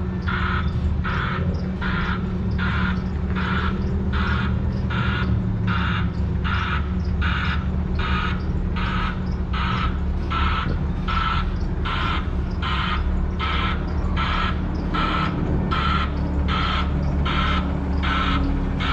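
Truck reversing alarm beeping steadily, about one and a half beeps a second, over a diesel truck engine running: the sign of a truck backing up.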